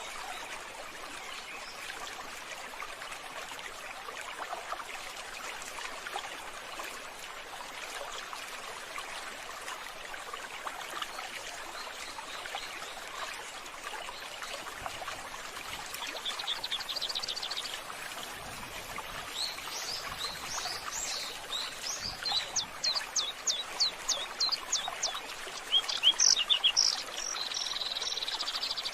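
Steady running water, with birds chirping over it from about halfway through: a quick run of repeated high notes and a short trill near the end.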